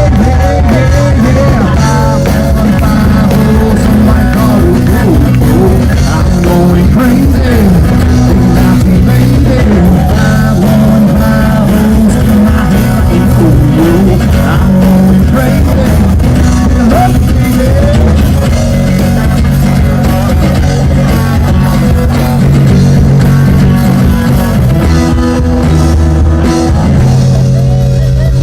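A live rock band playing loudly, with electric guitar over bass and drums, in an instrumental stretch of the song.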